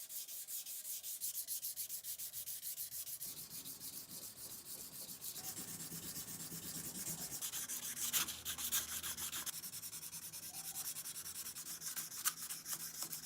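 Fine-grit sandpaper rubbed by hand over the steel of an axe head, in quick, even back-and-forth strokes, about four a second.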